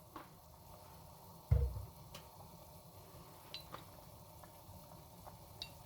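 Soup simmering in a pot with a soft steady hiss. One dull low thump comes about a second and a half in, and a few light clicks of kitchen utensils follow.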